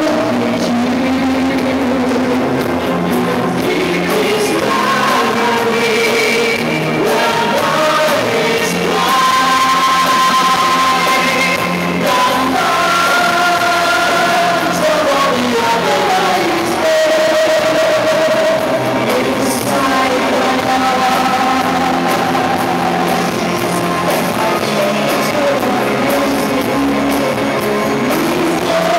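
A live rock band playing with a singer carrying the melody, the voice holding and sliding between long notes over guitar and drums.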